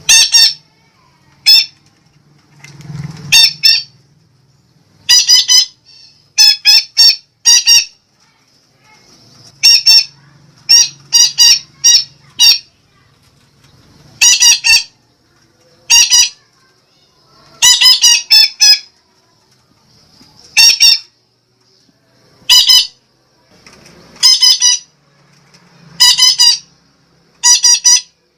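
Sumatran betet parakeet giving loud, harsh squawking calls, singly and in quick runs of two to four, repeated irregularly.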